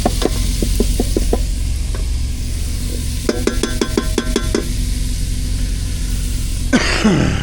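Food sautéing in an electric multicooker pot, stirred with a utensil that clicks against the pot in a quick run in the first second and a half, then clinks rapidly about three seconds in, over a steady low hum. A short falling squeal sounds near the end.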